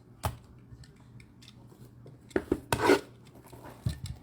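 Baseball cards and plastic card holders being handled: a sharp click near the start, then sliding, scraping rubs about two and a half seconds in and again near the end.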